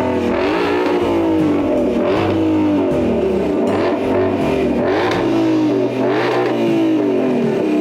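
2021 Ford Mustang Shelby GT500's supercharged 5.2-litre V8 being revved in repeated blips, about once a second, the pitch climbing and falling back each time. Background music plays under it.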